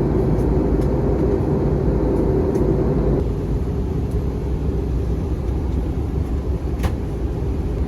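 Steady cabin noise of an Airbus A321 airliner on descent: the even rush of air and engine noise. A band of hum eases slightly about three seconds in, and there is a single click near the end.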